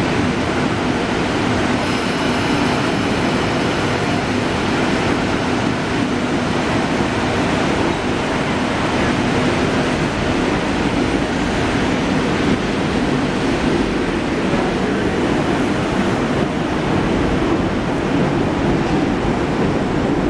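Sydney Trains double-deck electric train rolling past along the platform close by: a steady, even rumble of wheels and traction motors.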